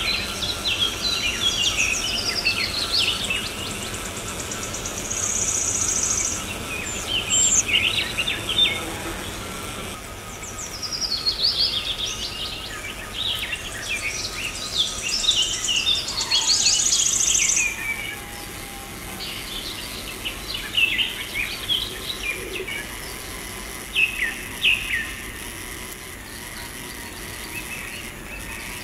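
Birds chirping and calling in quick, irregular bursts of short sweeping notes, over a faint steady whine.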